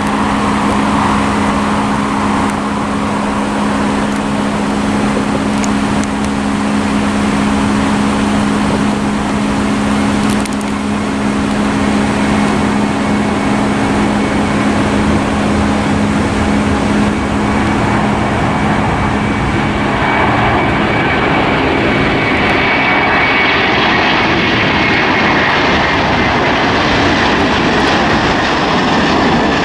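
Airliner engines running loud and steady, with two low steady tones under a rushing noise. In the second half a high whine comes in and slowly falls in pitch.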